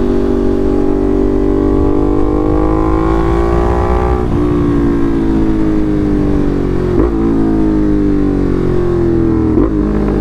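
Ducati Monster's 1200 cc V-twin through an SC Project aftermarket exhaust under way: the engine rises in pitch while accelerating for about four seconds, then falls off as the bike slows, with two quick jumps in engine pitch later on, as on downshifts.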